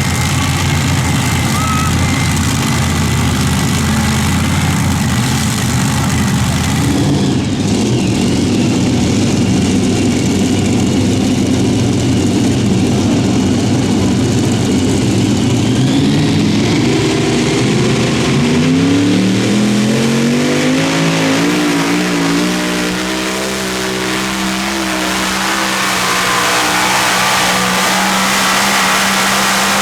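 Super modified pulling tractor's engine running at full throttle during a pull. About halfway through, the engine note climbs in pitch for several seconds and then holds high and steady.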